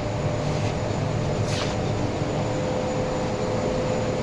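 Steady mechanical hum with a constant whine, and one brief hiss about a second and a half in.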